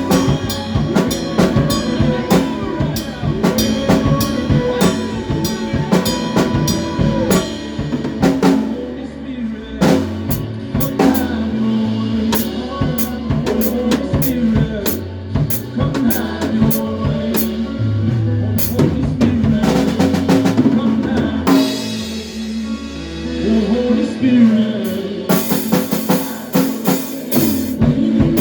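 Live band playing an instrumental passage: drum kit with kick, snare and cymbals over a stepping bass line and sustained chords. A cymbal wash swells near the end.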